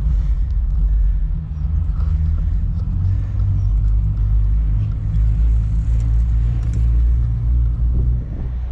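A loud, steady low rumble with no speech.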